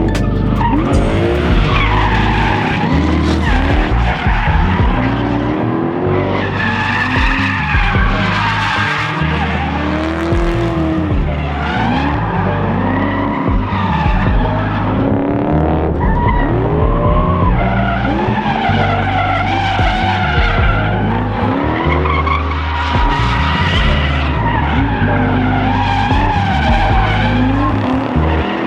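Drift cars on track: engines revving up and falling back again and again, with tyres screeching as they slide.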